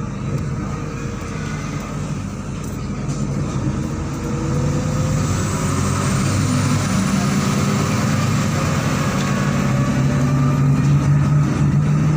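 MAZ-103 city bus pulling away and accelerating: the engine's drone rises in pitch and grows louder from about four seconds in. A thin high whine climbs slowly in pitch alongside it.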